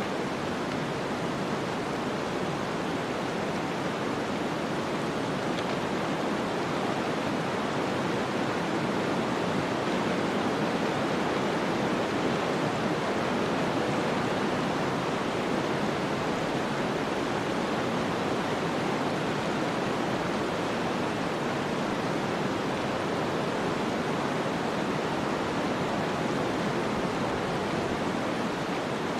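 Steady rushing noise of a snowstorm ambience: wind and blowing snow, with no distinct events. It swells slightly partway through, then eases.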